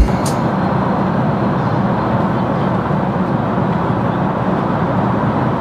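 Steady in-flight cabin noise of a jet airliner: an even, low rushing hum with no breaks.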